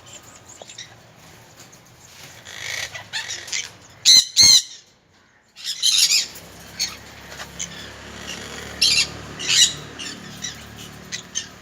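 An egg-bound conure hen squawking while being handled. Harsh calls come in short bursts, the loudest a pair of screeches about four seconds in, with more calls later.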